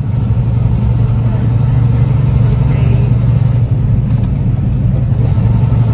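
A truck running with a steady low engine drone and a haze of road noise.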